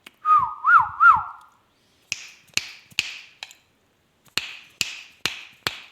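A short, loud warbling whistle whose pitch swings up and down three times, of the kind an Indian ringneck parrot makes. It is followed by two runs of sharp taps or clicks, about two or three a second.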